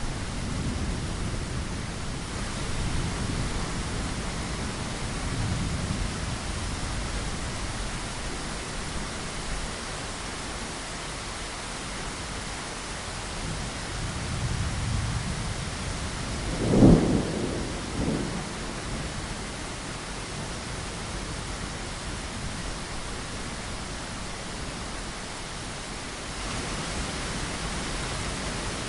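Steady rain with thunder: low rumbles roll in and out, and a sharp, loud thunderclap comes a little past the middle, followed a second later by a smaller crack.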